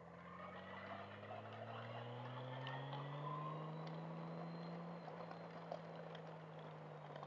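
Motorcycle engine pulling under way, its pitch climbing over the first few seconds as it accelerates, then holding and easing off slightly, with road and wind noise underneath.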